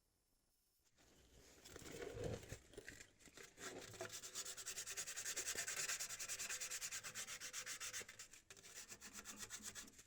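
Exhaust flange mating surface being scrubbed clean by hand with an abrasive, in rapid back-and-forth strokes that start about a second in.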